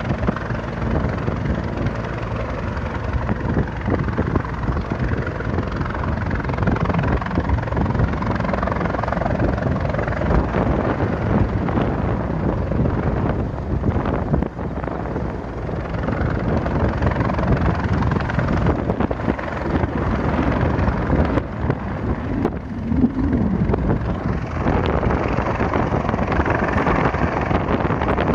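Rescue helicopter's rotors and engine running loud and steady close by.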